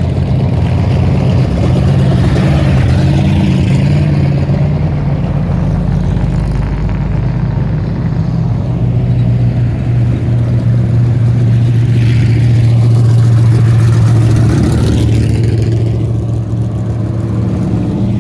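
Race car engines running at parade speed as the cars drive past, a loud steady rumble that swells twice as cars come close and pull away.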